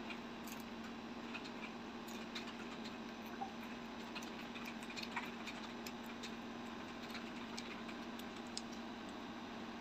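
A child chewing food quietly: faint, irregular small clicks and ticks over a steady hiss and a low hum.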